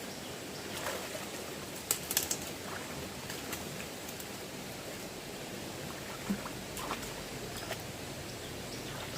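Steady rushing of fast-flowing stream water, with a few short clicks or knocks, the loudest about two seconds in.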